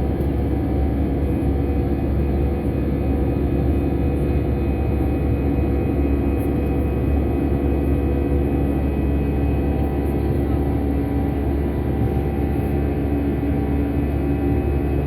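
Steady cabin drone of an Airbus A320's twin jet engines at climb power just after takeoff: a loud, even rumble with several steady hums and whines over it.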